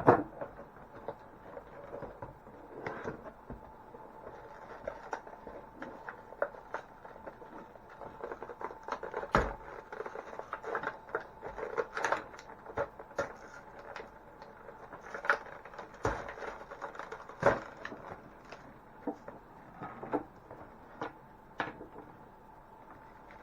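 Toy packaging being opened by hand: irregular clicks, taps and crinkles of plastic and cardboard being pulled apart.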